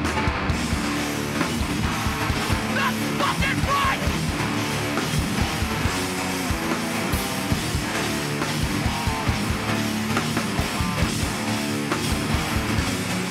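Live hardcore band playing: distorted guitars, bass and drums in a dense, unbroken wall of sound.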